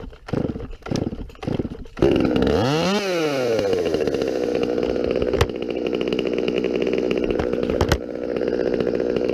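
Gas chainsaw being pull-started: several quick yanks of the starter cord, then the two-stroke engine catches about two seconds in and keeps running steadily, with a couple of sharp knocks partway through.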